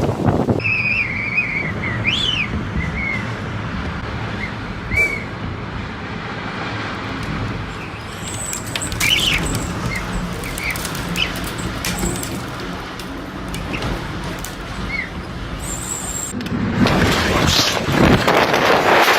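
Birds chirping in short calls over a steady rushing noise, which gets louder near the end.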